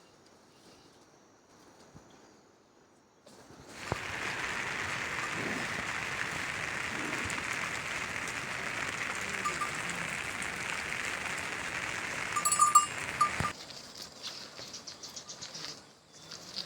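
A flock bleating over a steady loud hiss that starts suddenly about four seconds in and cuts off abruptly near the end, followed by scattered ticks.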